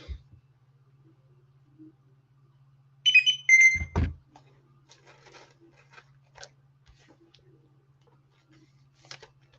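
A short electronic beeping alert, several high tones over about a second, ending in a low thump. Faint clicks and a steady low hum fill the rest.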